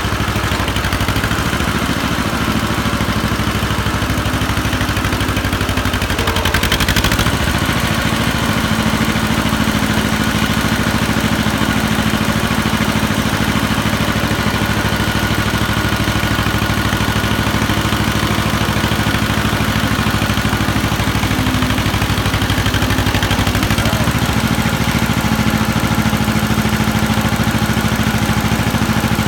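An engine running steadily around idle, its note shifting about seven seconds in and again near the end.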